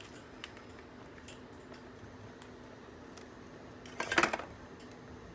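Light scattered taps, then a brief loud clatter about four seconds in.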